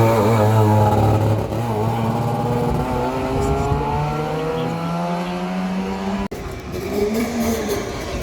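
Rally car engine accelerating hard, its note climbing steadily for about six seconds. About six seconds in the sound cuts off abruptly, and a quieter engine follows.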